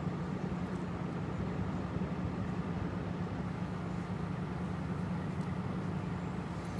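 Steady low hum of an idling vehicle engine, with no change in pitch or level.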